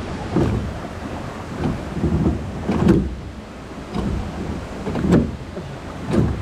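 Water sloshing and splashing against a small rowboat, in irregular swishes about once a second.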